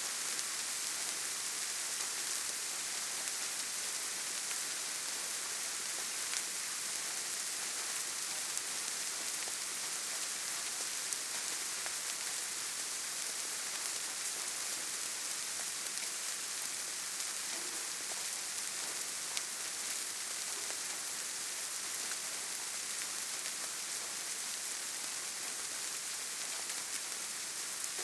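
Steady rainfall with scattered drop ticks, a constant hiss strongest in the high range.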